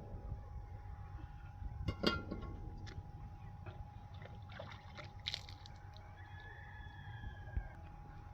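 A faint rooster crow, one drawn-out call lasting about a second and a half near the end, over a few scattered knocks and clicks and a faint steady hum.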